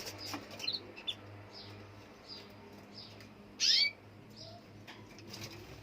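Group of canaries chirping in short, scattered calls, with one louder, longer call about three and a half seconds in, over a faint low hum.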